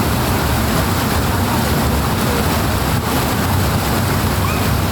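Water rushing steadily: a dense, unbroken noise, heaviest in the low end.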